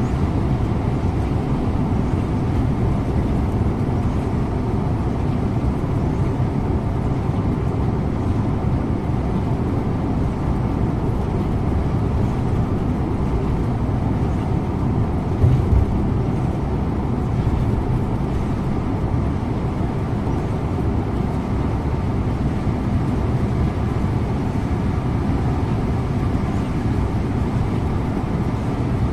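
Scania InterLink bus under way: the steady low drone of its engine and tyres, heard from the driver's seat. A brief thump comes about halfway through.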